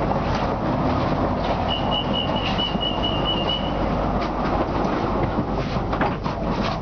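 BTS Skytrain carriage noise heard from inside the car: a steady rumble with scattered clicks. About two seconds in, a rapid run of short high beeps sounds for about two seconds.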